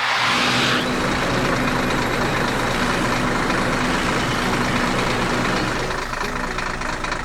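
Heavy vehicle engine running steadily, with a loud burst of hiss in the first second.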